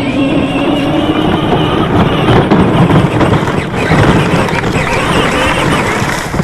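Battery-powered kids' ride-on toy vehicle driving: a steady electric motor and gearbox whine over a rumble of its wheels on rough ground.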